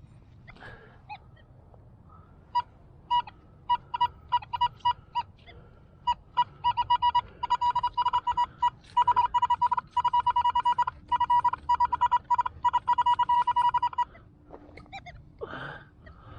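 Metal-detecting pinpointer probe beeping at one steady high pitch. It starts as single beeps a couple of seconds in, then turns rapid and nearly continuous for several seconds before stopping abruptly: the probe is closing in on a buried metal target.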